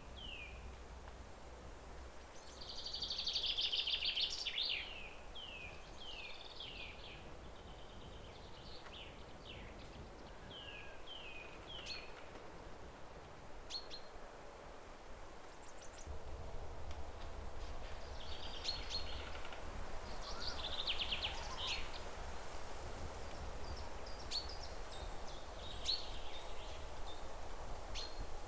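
Songbirds calling and singing: repeated short falling chirps and a few bursts of rapid trilling, the loudest a trill about three seconds in, over a steady low background rumble.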